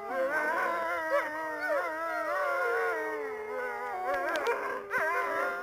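Wolves howling: several long howls at different pitches overlap, some held level and some sliding up and down.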